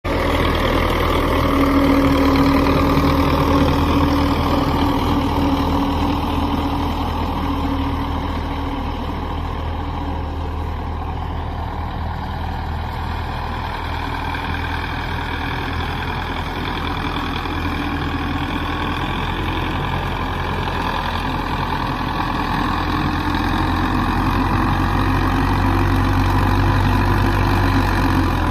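Belarus tractor's diesel engine running steadily, without a break. It grows somewhat quieter through the middle and louder again near the end.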